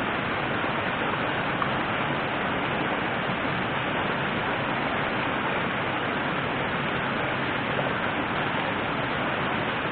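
River water rushing: a steady, even hiss with no breaks.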